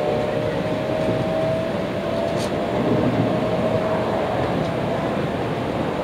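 Cabin noise of a JR Kyushu N700 series 8000 shinkansen car running on the line: a steady rumble, with a faint whine that climbs slowly in pitch as the train gathers speed and then fades into the running noise.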